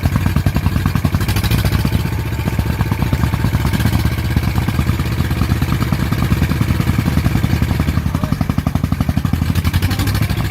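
Diesel farm-vehicle engine running hard under load, with a fast, even chugging that holds steady throughout.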